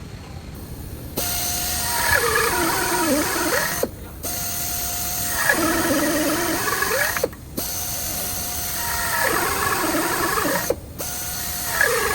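A mechanism running in repeated cycles about every three and a half seconds: a steady whine, then a wavering whine that dips and rises in pitch, each cycle ending in a brief pause.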